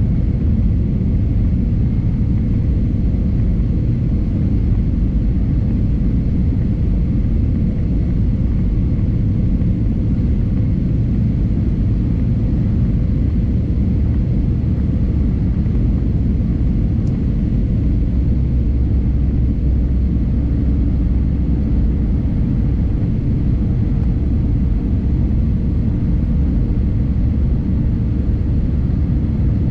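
Steady low cabin rumble of an Airbus A320neo (A320-271N) with Pratt & Whitney PW1100G geared turbofans, heard from a window seat inside the cabin: engine and airflow noise with faint steady engine tones over it.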